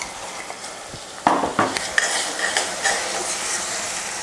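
Tomato, ginger and garlic paste frying in oil on sautéed onions in a stainless steel pan, sizzling softly at first. A little over a second in, a metal spatula starts stirring, scraping and tapping against the pan, and the sizzling gets louder. The paste is being sautéed until the oil separates.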